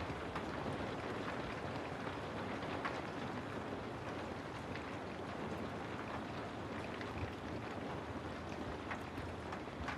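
Steady rain, an even dense hiss with scattered sharp drop ticks.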